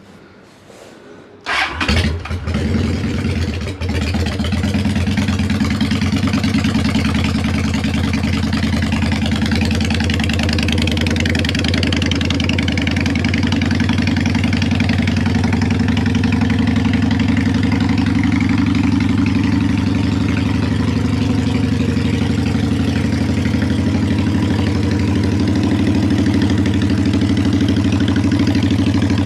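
Cold start of a 2003 Honda Shadow 750 ACE V-twin through 2-inch Cobra Drag pipes, on choke after sitting two weeks. The engine catches about a second and a half in, runs unevenly for a couple of seconds, then settles into a steady idle on choke.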